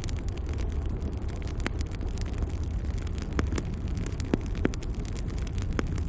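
Wood fire burning in a fireplace: a steady low roar of flames with frequent sharp crackles and pops from the burning logs, two louder pops a little past the middle.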